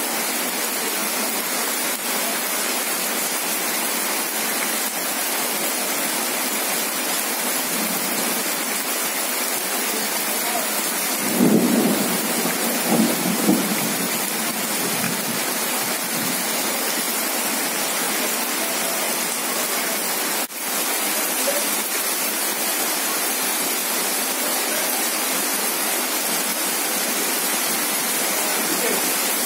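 Heavy rain pouring onto bare ground in a steady, dense hiss. About twelve seconds in, a louder, deeper surge lasts a couple of seconds, and a sharp click comes about twenty seconds in.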